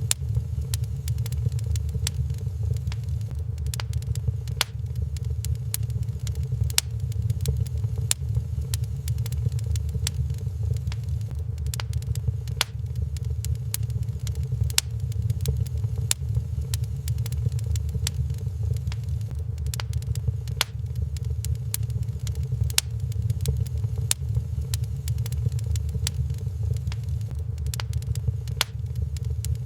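Wood fire crackling in a fireplace, with many sharp irregular pops and snaps over a steady low rumble.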